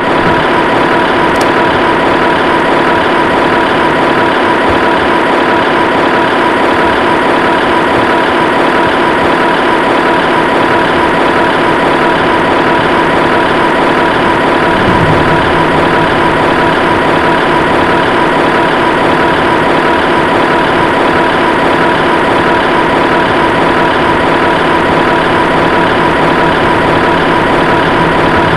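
Heavy vehicle engine idling steadily, an even drone with a constant pitch.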